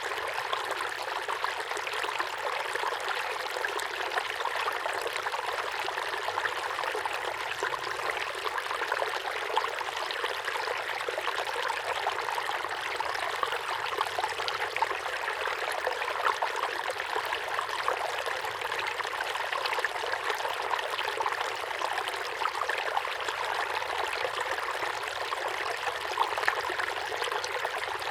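Mini waterfall pouring steadily into a small pond, an even splashing rush with small irregular splashes.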